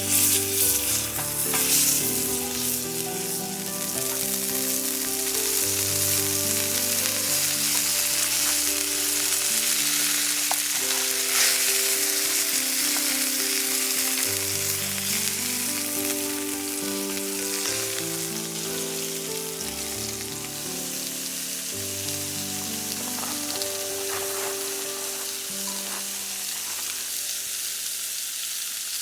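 Food frying in a hot pan, sizzling steadily, with a few light taps.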